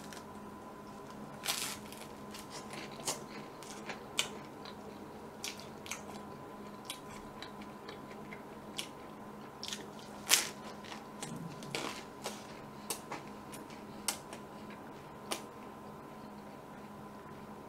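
Close-miked eating: a soft cream-filled bun being bitten and chewed, with scattered sharp wet mouth clicks and smacks, the loudest about ten seconds in. A faint steady hum lies underneath.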